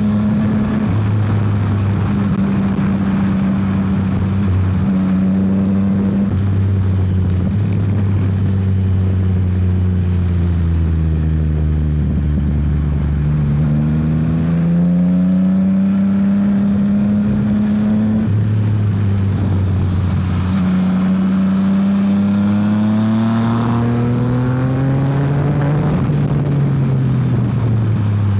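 Yamaha XSR900's inline three-cylinder engine running hard under way, heard from the rider's seat. Its revs fall and climb again several times as the rider rolls off and opens the throttle through the gears.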